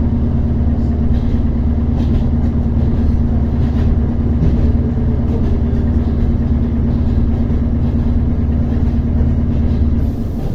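ER9T electric multiple unit running between stations: a loud, steady low rumble with a steady electrical hum. Near the end the hum and much of the rumble drop away, leaving quieter running noise.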